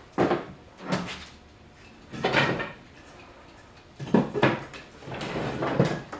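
Pieces of scrap wood being handled and sorted: a series of wooden clunks and short scraping slides, five or six in all, with pauses between them.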